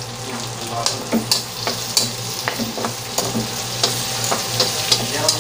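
Onion rings sizzling in hot oil in a wok while metal tongs stir them, clinking against the pan in repeated sharp clicks, about three a second.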